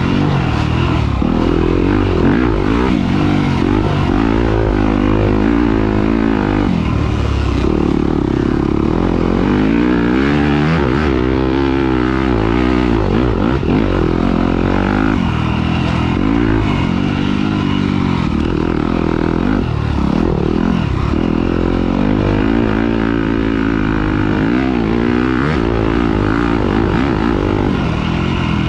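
Off-road motorcycle engine revving up and down continuously as the bike is ridden hard around a dirt track, its pitch rising and falling with throttle and gear changes.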